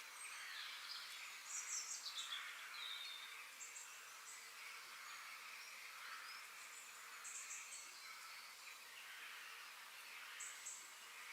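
Songbirds chirping in short, high, scattered bursts over a faint, steady hiss of outdoor ambience.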